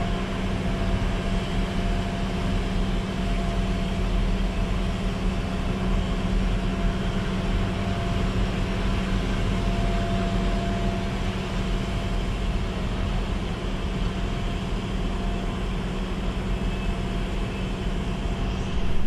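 PKP Intercity passenger coaches rolling out of the station along the platform: a steady rumble of wheels on rails, with a faint steady tone.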